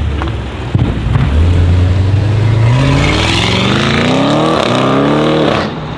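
Audi RS7 C7's twin-turbo V8, breathing through a decatted Akrapovic exhaust, accelerating hard. The engine pitch climbs steadily for several seconds with a brief break partway, then the sound drops away suddenly near the end.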